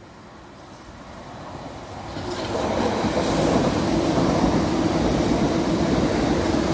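A train approaching and running past on the line, growing louder over the first three seconds and then passing at a steady, loud rumble.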